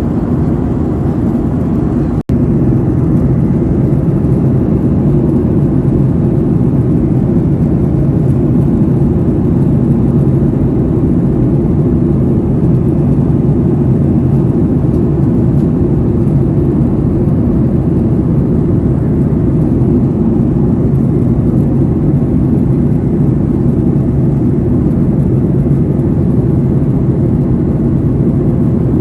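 Steady jet airliner cabin noise: a constant low drone of the engines and airflow heard inside the passenger cabin, with a momentary dropout about two seconds in.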